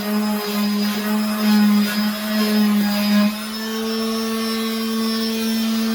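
Electric sander with 120-grit paper running on a wooden table, a steady motor hum. The loudness wavers for the first three seconds, then it settles to a steadier, slightly higher hum.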